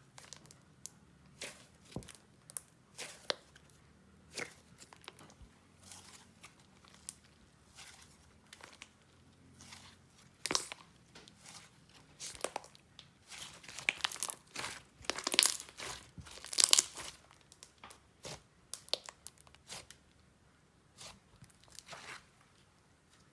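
Jelly slime topped with polymer-clay fruit slices being squeezed and pressed by hand, giving scattered wet pops and clicks with pauses between them. The pops come thickest and loudest in the middle stretch.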